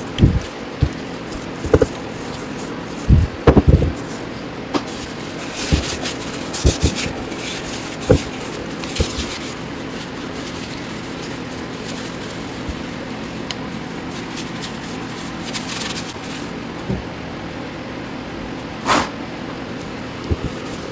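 Metal parts and tools knocking and scraping irregularly as a steering knuckle's bearing bore is cleaned up, over a steady shop hum. The knocks come thickest in the first few seconds, and short scraping sounds follow every few seconds.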